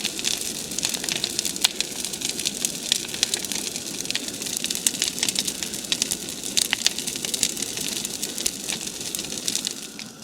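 Big bonfire of cut logs and brush, with tyres in it, burning hard: dense crackling and popping over a steady noise of the flames, easing off slightly near the end.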